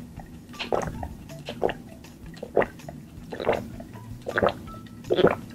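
Close-up wet mouth sounds of a person chewing food: a string of short, irregular smacks and squishes.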